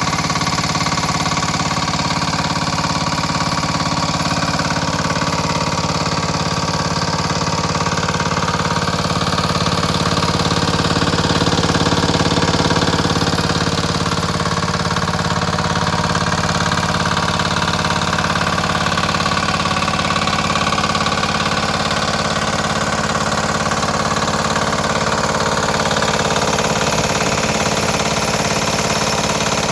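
Samsun 4 hp diesel engine running steadily, getting slightly louder for a few seconds around the middle.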